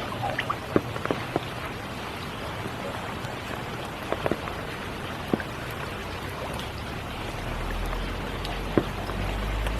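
Steady spring rain falling, with single drops plinking sharply on nearby surfaces now and then. A low rumble swells in under the rain from about three-quarters of the way through.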